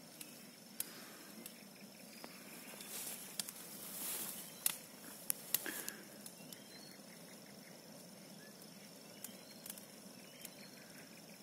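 Large bonfire burning, with scattered sharp crackles and pops, a cluster of them about five seconds in, and a swelling hiss just before.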